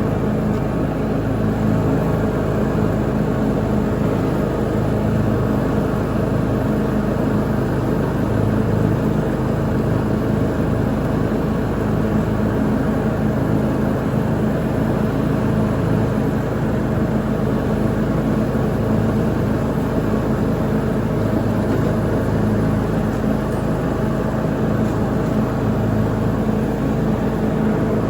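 Lawn mower engine running steadily while mowing, a constant drone with no change in speed.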